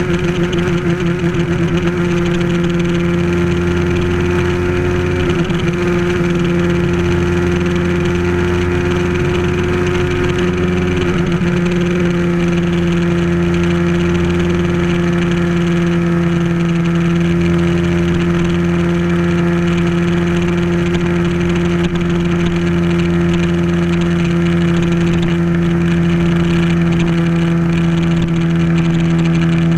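Bajaj Pulsar motorcycle's single-cylinder engine running at steady cruising revs, heard from on board. Its note shifts slightly around five and eleven seconds in, then holds steady.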